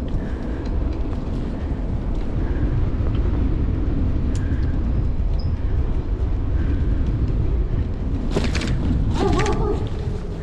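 Wind buffeting the microphone and tyre rumble from a moving bicycle, a steady low rumble. Near the end come a short clatter of rattles and a brief squeak from the bike.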